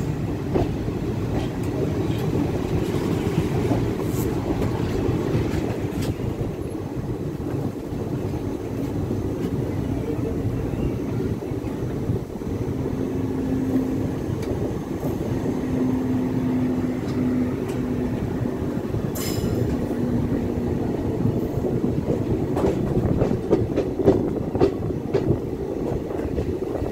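Passenger train coaches running at speed, heard from on board: a steady rumble of wheels on rail with scattered clicks at the rail joints. A faint steady hum joins in midway for several seconds.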